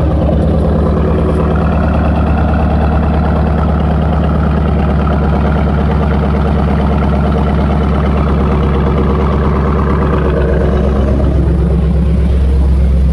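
Dodge R/T's 5.7-litre HEMI V8 idling steadily just after a warm start, with a loud, deep exhaust drone. The mid mufflers and resonator have been cut out, leaving only the catalytic converters.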